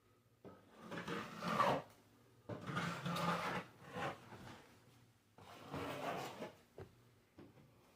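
Drywall knife scraping across the wall in three long strokes.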